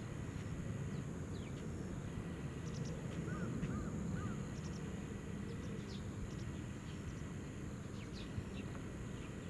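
Faint, scattered short bird calls and chirps over a steady low outdoor rumble, with three small rising-and-falling calls about three to four seconds in.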